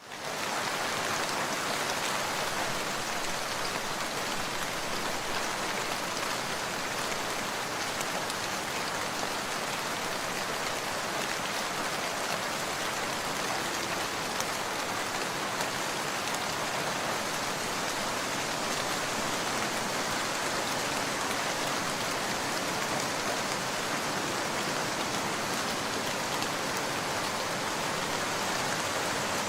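Steady rain, an even, dense hiss of many drops falling, fading in at the very start and then holding level.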